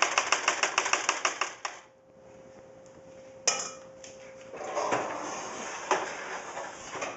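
A utensil tapping and scraping against a baking dish in a quick run of strokes, about seven a second, for nearly two seconds, as thick dip is spread in the pan. After a pause comes a single sharp knock, then a stretch of kitchen clatter and rustling with a couple of knocks.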